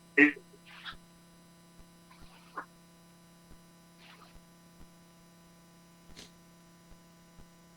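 Steady low electrical mains hum. A short voice sound comes right at the start, followed by a few faint, brief rustles and clicks.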